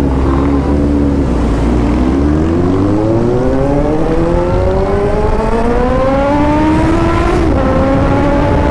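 Suzuki GSR750's inline-four engine under hard acceleration: the revs climb steadily for several seconds, then drop sharply at an upshift about seven and a half seconds in and start to climb again.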